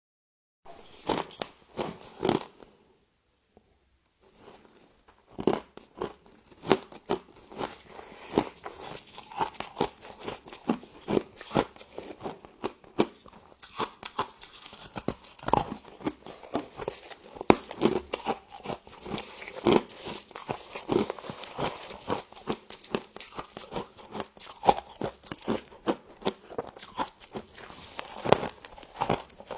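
Close-up biting and chewing of crunchy frost, a dense run of irregular crunches with a brief pause about three seconds in.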